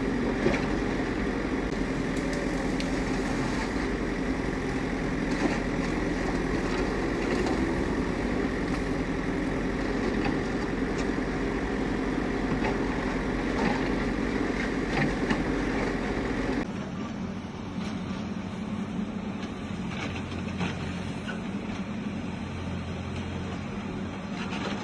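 Motor vehicle engine running steadily, with the heavy drone of a truck or similar machine. About two-thirds of the way through the sound changes abruptly to a quieter, duller engine drone.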